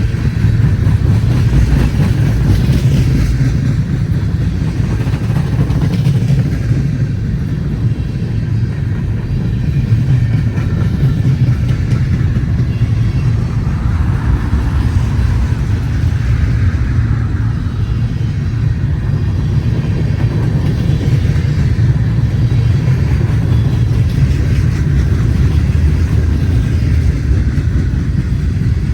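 Canadian National freight train rolling past, a steady low rumble of the cars on the rails.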